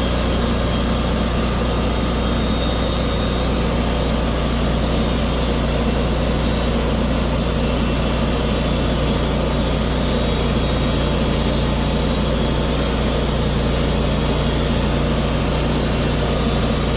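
Cook's band sawmill running steadily, its engine and band blade cutting slowly through a large oak slab.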